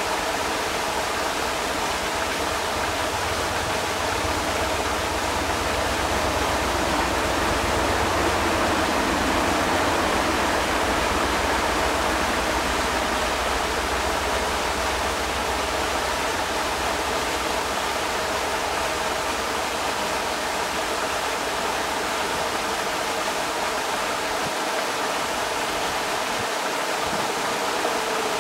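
Creek water rushing over rocks in a steady, even stream.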